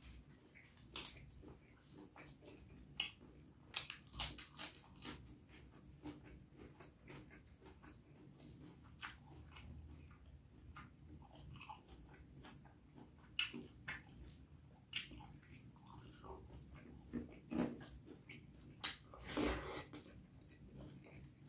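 Chewing and biting of a mouthful of spicy beef curry and rice, heard as irregular short clicks and mouth noises, with a louder run of them near the end.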